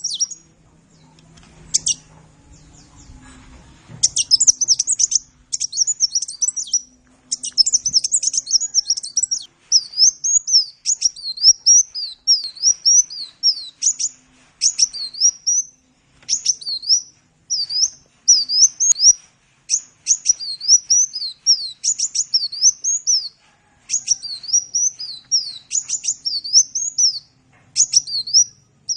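A sunbird (Indonesian 'kolibri') singing: rapid strings of high-pitched, quickly rising and falling chirps in phrases separated by short pauses. The song drops out for a few seconds near the start, then runs on almost continuously.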